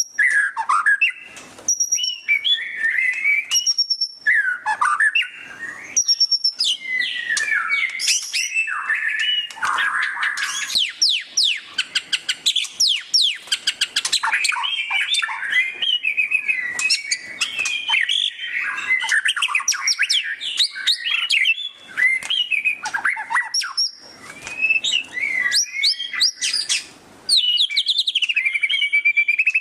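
White-rumped shama (murai batu) singing continuously: a loud, varied song of clear whistles broken by fast chattering runs of notes sweeping up and down (the 'ngeriwik' style).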